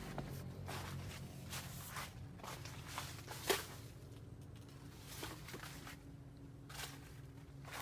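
Irregular soft crunching and rustling steps, about one or two a second, with one sharper crack about three and a half seconds in, over a faint low hum.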